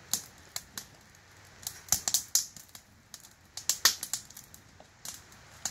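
Wood campfire crackling: irregular sharp pops and snaps, bunched in a quick cluster about two seconds in and another near four seconds.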